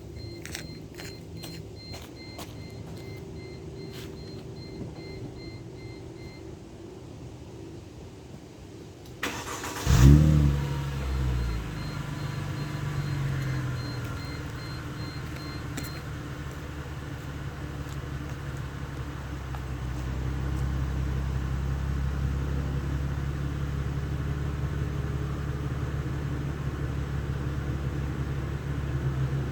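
Mercedes-Benz SLK cold start after sitting about 24 hours. A few clicks and an on-and-off beeping come first; about nine seconds in the starter cranks briefly, the engine catches with a loud flare of revs, then it drops and settles into a steady cold idle.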